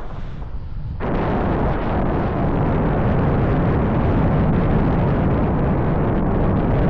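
Gusty wind buffeting the microphone, a loud low rushing that picks up sharply about a second in and then holds strong.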